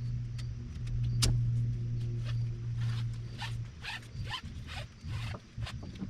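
Short runs of ratchet clicking, with one sharp click about a second in, over a steady low hum.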